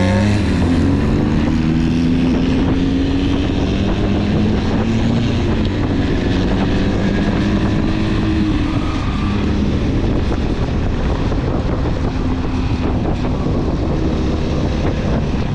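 Motorcycle engine running at steady speed while riding, with wind buffeting the microphone; the engine note levels off after rising at the start.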